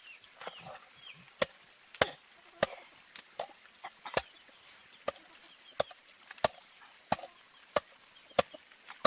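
Steady chopping with a blade, about a dozen sharp strokes roughly two-thirds of a second apart, starting about a second and a half in.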